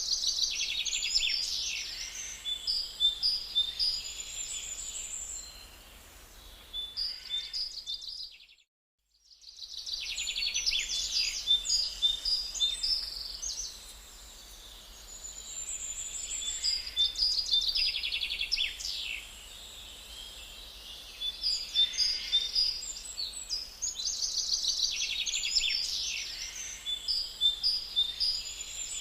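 Songbirds singing: dense, repeated chirps and fast trills, high-pitched, broken by a brief silent gap about nine seconds in.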